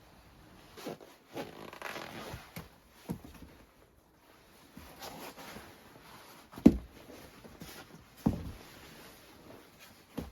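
Rustling and handling of gear, with a few separate knocks; the sharpest knock comes about two-thirds of the way in.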